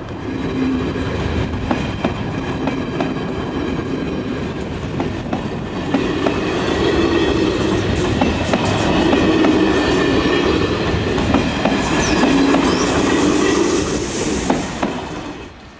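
A passenger train of stainless-steel coaches running past close by: a steady rolling rumble with wheels clicking over the rail joints. It grows louder as the coaches draw level and falls away shortly before the end.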